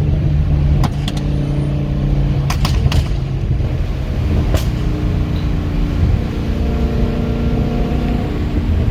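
Volkswagen GTI MK7's turbocharged 2.0-litre four-cylinder running at a steady low speed through a catless downpipe, muffler delete and glasspack, with a loud, rough exhaust note. Several sharp exhaust pops come in the first half; the car has a stratified tune meant to make the exhaust pop and shoot flames.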